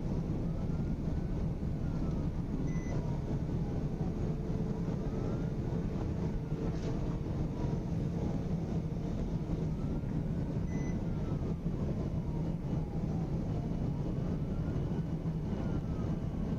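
Police siren wailing, its pitch rising and falling slowly about once every four to five seconds, over a steady vehicle engine and road rumble.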